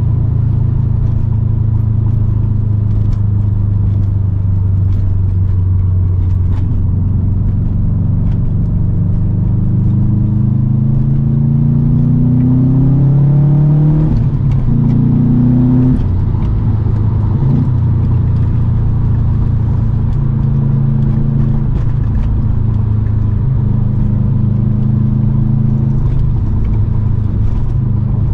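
2008 Subaru Impreza WRX STI's turbocharged 2.5-litre flat-four running through an Invidia catted downpipe and N1 exhaust while driving. The engine holds steady, then pulls up through the revs for several seconds to about halfway. The pitch drops suddenly at a gear change, and the engine settles back to a steady cruise.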